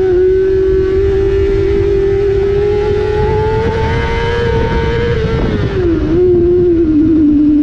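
Honda CBR600 inline-four engine pulling hard at high revs, its pitch climbing slowly, then falling in a couple of steps about two-thirds through as the rider rolls off, brakes and shifts down. Heavy wind rush over the bike-mounted microphone underneath.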